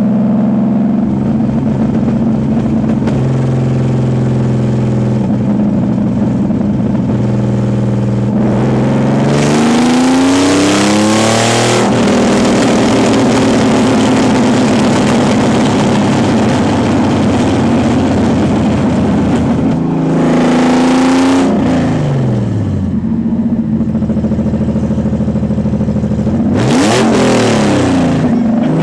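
Nissan 300ZX (Z32) naturally aspirated VG30DE V6 running with no exhaust fitted, driven on the road: the revs climb sharply under acceleration about ten seconds in, again around twenty seconds and near the end, with steady running between.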